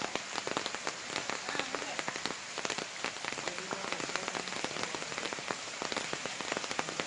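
Steady heavy rain: a dense, unbroken spatter of drops striking hard surfaces.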